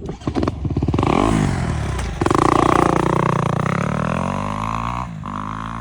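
A 250cc dirt bike engine revving hard: the revs climb, then the engine note falls steadily over the last few seconds.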